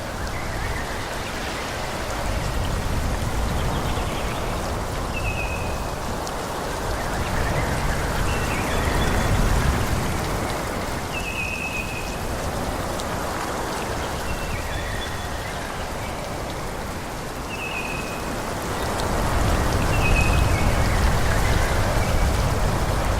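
Forest ambience of wind rushing through the trees in slow swells, louder about ten seconds in and again near the end. Short, high, falling bird chirps repeat every few seconds over it.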